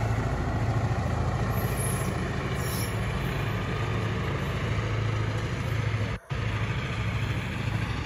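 Diesel-hauled freight train of tank cars and covered hoppers rolling past, a steady rumble of wheels on rail with a low hum underneath. The sound drops out briefly about six seconds in, then the cars roll on.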